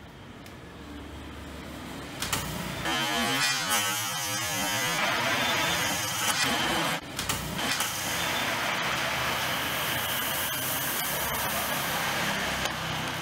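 Sharp knocks about two seconds in as the arrow strikes, then carbonated cola spraying from a plastic Coke bottle pierced by the arrow: a steady hiss, broken briefly about seven seconds in.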